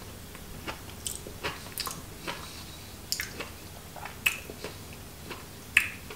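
A man chewing a mouthful of broccoli stoemp and bratwurst, with irregular wet mouth smacks and clicks. Two sharper clicks, a little past four seconds and near the end, are the loudest.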